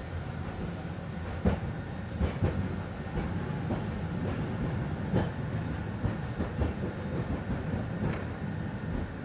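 Peak Tram funicular car running on its rails: a steady low rumble with irregular sharp clacks from the wheels, the loudest about a second and a half in.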